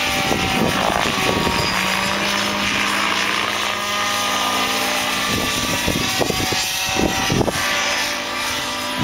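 Engine-powered radio-controlled helicopter running steadily in flight, its engine and rotors holding a steady pitch. Wind buffets the microphone in gusts, more often in the second half.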